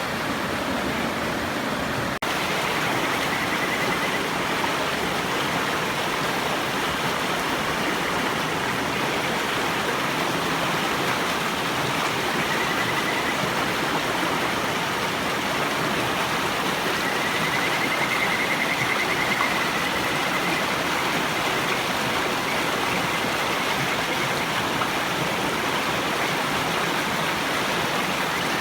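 Kajika frog (Buergeria buergeri) singing faint, high, wavering trills several times over the steady rush of river water. A single sharp click about two seconds in.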